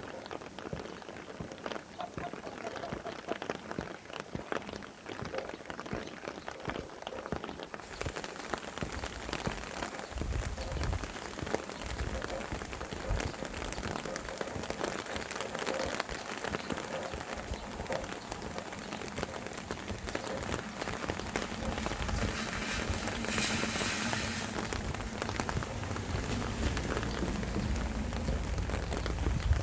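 Steady rain falling, dense with small drop impacts, with wind gusts rumbling in about a third of the way through and again near the end.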